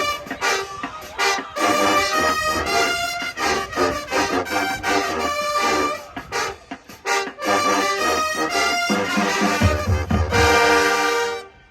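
High school marching band brass playing a run of short, punchy chords, then a held final chord over heavy low drums that cuts off abruptly just before the end.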